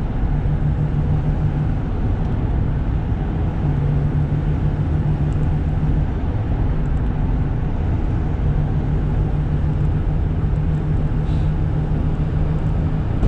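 Interior sound of a Toyota Granvia under way: its 1KZ-TE 3.0-litre turbo diesel running steadily under road and wind noise, with a low drone that swells and fades a few times.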